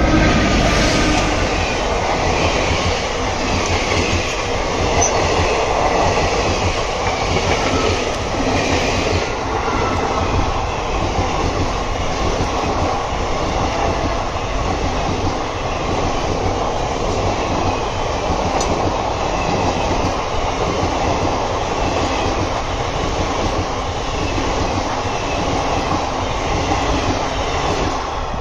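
Passenger express passing close by at speed: the WAP-4 electric locomotive goes by at the start, then a long, steady rush of coaches with wheels clattering over the rails.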